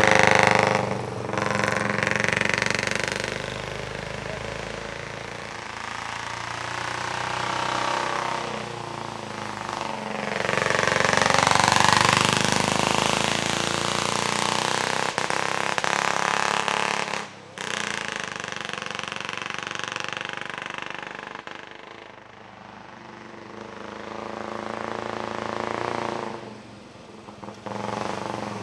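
Vintage racing car engines at full throttle with a rapid, staccato exhaust note, swelling and fading as the cars pass. Several separate passes, the loudest about twelve seconds in, with a sudden break a little after halfway.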